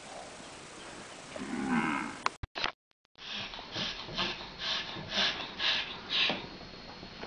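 A cow moos once, about one and a half seconds in. After a short silence comes a run of short breathy puffs, about two a second.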